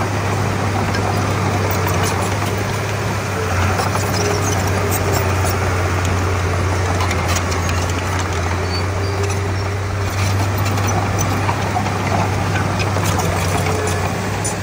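Komatsu D31P bulldozer's diesel engine running steadily at working revs, a continuous low drone, with scattered light clicks and clanks over it.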